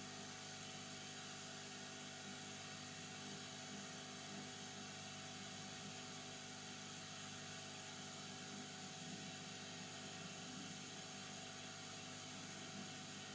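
Steady, quiet fan whir with a constant electrical hum from electronics-repair bench equipment, running evenly throughout.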